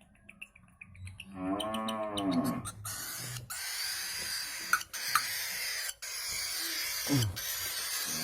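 A long drawn-out call that rises and then falls in pitch, about a second in, followed by the steady rolling rattle of a small toy cart's wheels as the trained bird pushes it along.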